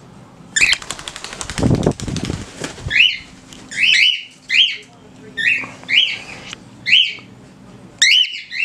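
A pet bird flapping its wings for about two seconds, then a run of short rising chirps, about two a second.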